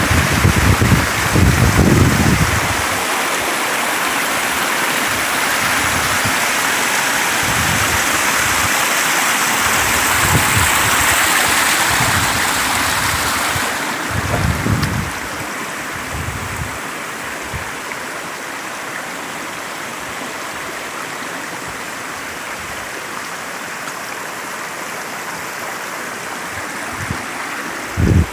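Steady rush of water from a rocky creek and waterfall flowing strongly. Wind buffets the microphone with low rumbling gusts in the first few seconds, again about halfway, and just before the end. About halfway the water sound turns duller and a little quieter.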